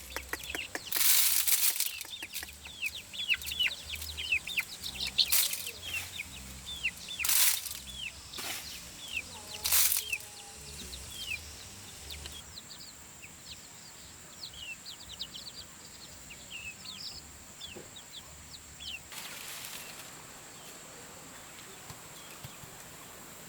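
Chickens peeping and clucking, many short high falling calls in quick succession. Several sharp, loud noises come in the first ten seconds, and the peeps thin out in the second half.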